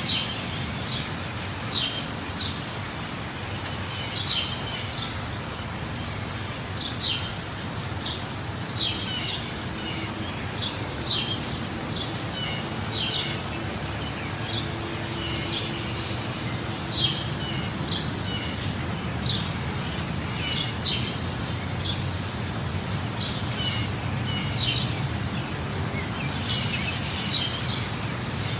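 Rainforest ambience: birds give short, high chirps every second or two over a steady wash of water noise.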